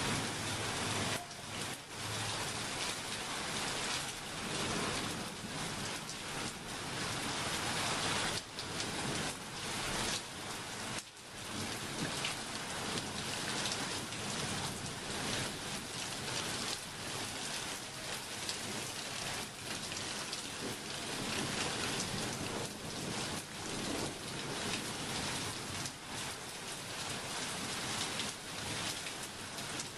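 Rain falling steadily: a dense hiss, with many small drop hits close by.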